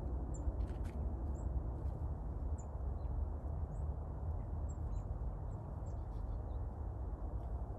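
Small birds chirping faintly, short high chirps every second or so, over a steady low rumble.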